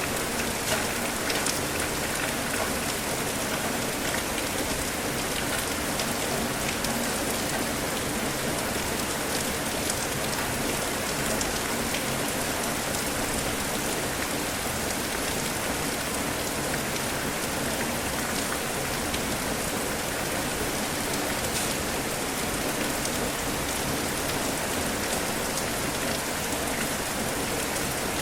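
Steady rain falling, an even hiss with scattered faint ticks of individual drops striking a surface.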